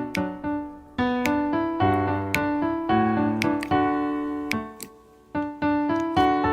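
Background piano music: a light melody of struck notes, each fading away, with a short break about a second in and another near five seconds.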